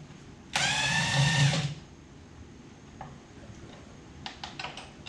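Handheld power drill running in one burst of just over a second at a steady pitch, then stopping. A few light clicks of tool handling follow near the end.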